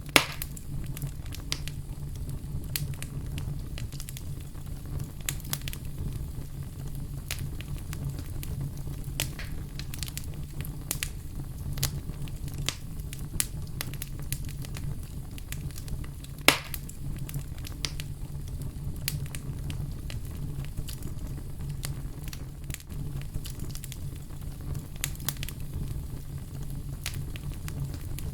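Fire crackling in a fireplace: a steady low rumble of burning with irregular small snaps and pops throughout. Two louder pops stand out, one right at the start and one a little past halfway.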